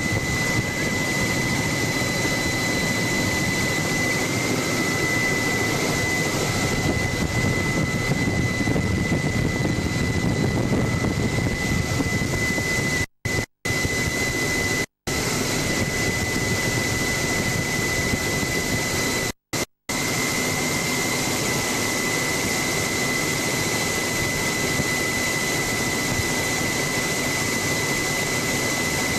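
Helicopter in flight heard from on board: steady engine and rotor noise with a constant high-pitched turbine whine. The sound cuts out completely for a moment several times around the middle.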